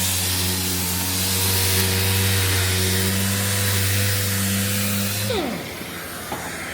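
Power sander with 80-grit paper running steadily against a car fender panel, a hum with a hiss over it. About five seconds in it shuts off, its pitch falling as it spins down.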